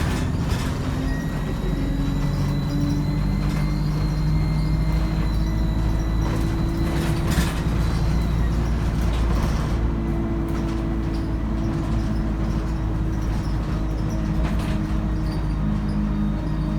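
ADL Enviro 200 bus with a 3-speed Voith automatic gearbox running under way: a steady diesel drone with a thin high turbo whine that fades out about six seconds in. A few short knocks or rattles come through, two of them at about seven seconds.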